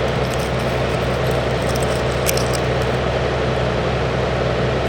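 A steady hum with an even hiss, as of a running machine, holding level throughout, with a couple of faint clicks about two seconds in.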